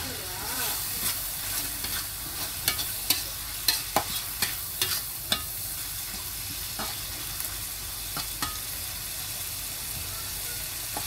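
Sambal petai (chili paste with stink beans) sizzling in a wok as a metal spatula stirs it, scraping and clinking against the wok. The clinks come thick and fast in the first half, then thin out to a few.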